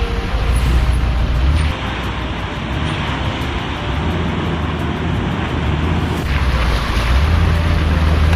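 Toyota LandCruiser 200 Series engine running low and steady as it tows a caravan through the Barnett River ford, under a constant rush of churning, splashing water, with wind buffeting the microphone.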